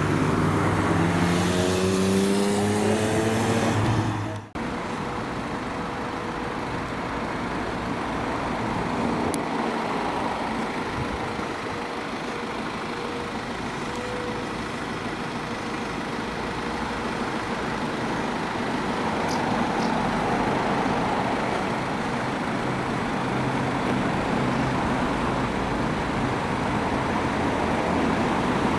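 A road vehicle's engine accelerating, its pitch rising steadily, until an abrupt cut about four seconds in; then steady road traffic noise.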